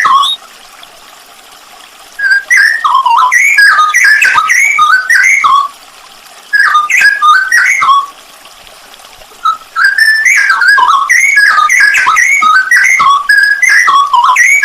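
Straw-headed bulbul (cucak rowo) singing loud, rich whistled warbling phrases of fast up-and-down notes. The song comes in three bouts with short pauses between them, the first starting about two seconds in.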